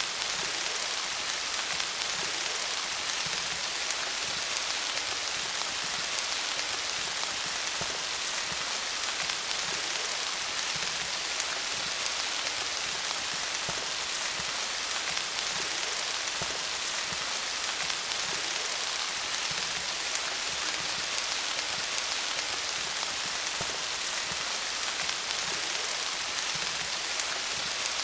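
Steady rain falling on leaves: a dense, even hiss of countless drops pattering on foliage.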